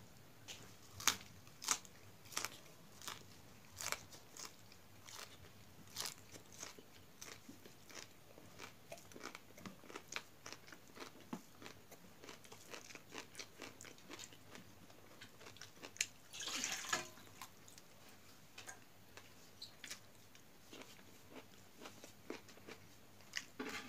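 Close-miked eating sounds: crunchy chewing and biting of rice with raw herb leaves and vegetables, many sharp crisp clicks at an uneven pace. There is a brief louder hiss about two-thirds of the way through.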